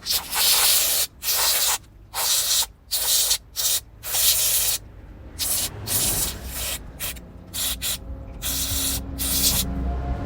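Aerosol spray can sprayed in a run of short hissing bursts, some under half a second and some nearly a second long, with abrupt starts and stops.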